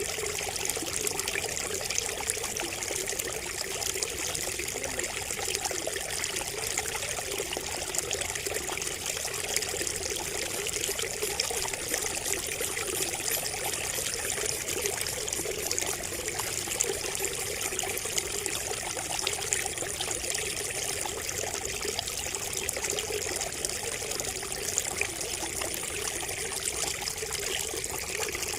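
Water trickling steadily from a bamboo spout, a constant flow with many small splashes.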